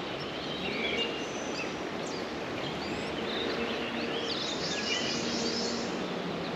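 Birds chirping and twittering over a steady outdoor hiss, with a quick run of high chirps about two thirds of the way through and a faint low hum underneath.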